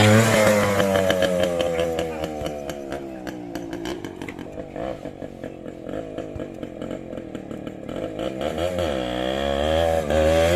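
Hero Xpulse 200 motorcycle's single-cylinder engine: revs fall from high over the first two seconds, it runs at lower revs with rapid exhaust pulses, then it revs up twice in quick succession near the end.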